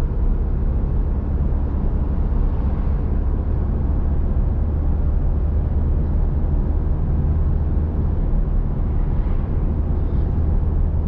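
Steady low drone of a vehicle cruising on the highway, heard from inside the cab: engine and tyre-on-road noise, with no change in pace.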